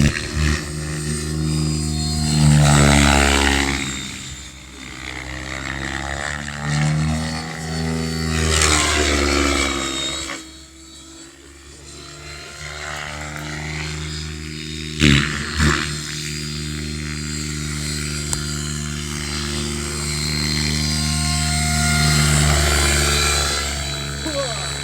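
Radio-controlled model helicopter flying, its motor and rotor hum rising and falling in pitch as it manoeuvres. Two sharp knocks come about fifteen seconds in.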